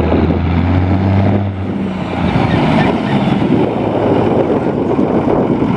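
Ford pulling tractor's engine running loud, with a steady low note for about the first two seconds that then gives way to a rough, dense noise.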